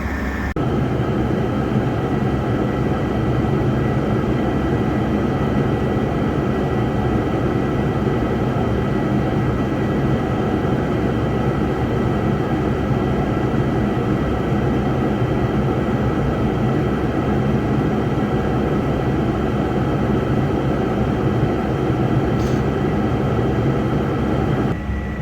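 Case 140 tractor's diesel engine running steadily with a constant drone and whine, heard from inside the cab; it picks up slightly about half a second in.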